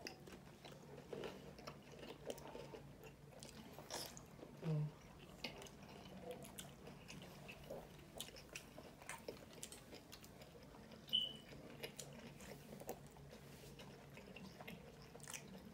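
Close-up chewing and biting of food, loaded shrimp nachos and soft tacos, with scattered soft crunches and wet mouth clicks. A brief low hum sounds about five seconds in.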